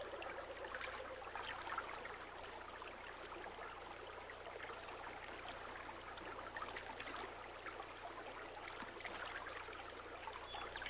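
River water trickling and lapping, with many small splashes.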